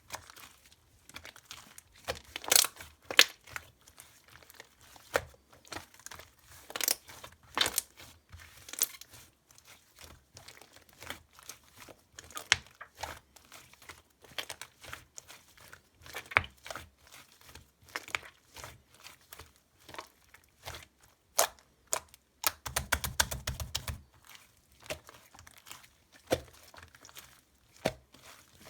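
Soft, chewy purple clay slime being squished, pressed and stretched by hand, giving sticky crackling pops and clicks at irregular intervals. A quick dense run of crackles comes about three-quarters of the way through.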